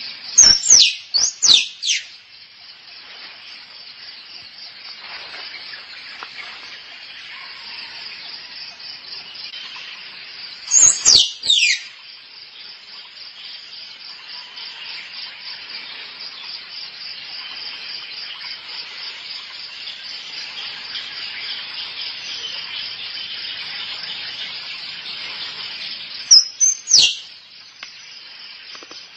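Squirrel mating calls: three short clusters of loud, sharp chirps that fall steeply in pitch, near the start, about eleven seconds in, and near the end. A steady, fast-pulsing high insect trill runs underneath.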